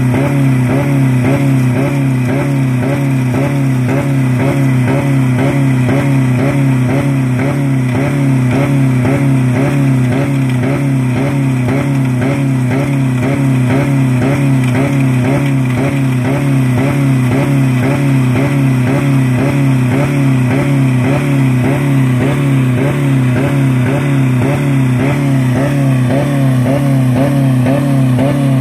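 2000 Dodge Neon's four-cylinder engine held at about 4000 rpm, running with no oil or coolant left in it. Steady high-revving drone with a regular pulsing a few times a second.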